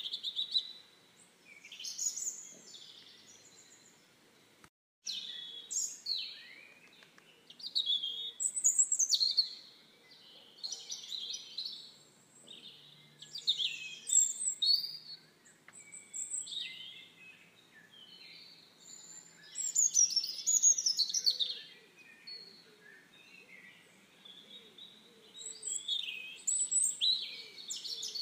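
Songbirds singing, with repeated phrases of quick, high chirps and warbles every couple of seconds. The sound cuts out completely for a moment about five seconds in.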